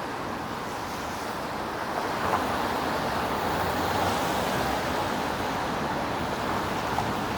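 Wet city street traffic: a steady hiss of tyres on rain-wet road, swelling a little a couple of seconds in as traffic passes.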